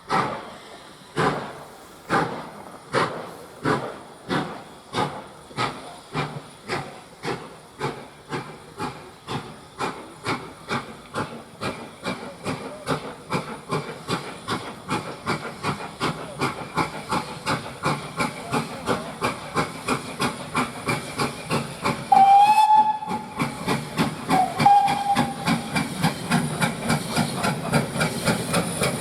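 Steam locomotive pulling away, its exhaust beats starting slow, about one a second, and quickening steadily as it gathers speed. About three quarters of the way through, its whistle sounds twice, the first blast longer.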